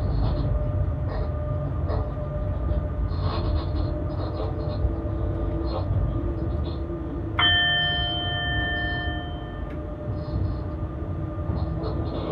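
Steady running rumble of a BR 186 electric locomotive, heard from the driver's cab, with short clicks from the rails. About seven seconds in, a bell-like chime of several tones rings out suddenly and fades over about two seconds before stopping.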